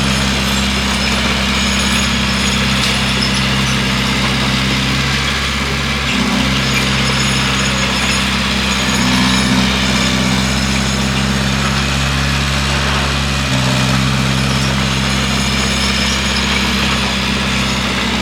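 Bulldozer's diesel engine running steadily, its note dipping briefly twice.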